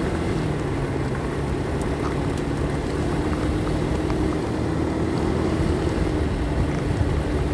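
Motorcycle engine running at a steady cruise, with wind and road noise, picked up by a helmet-mounted microphone.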